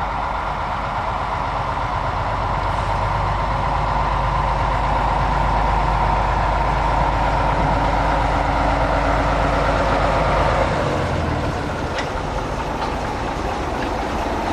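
Diesel engine of a heritage railway locomotive or railcar running steadily with a deep low end, slightly louder over the first ten seconds, then dropping back about ten and a half seconds in. A short click comes about twelve seconds in.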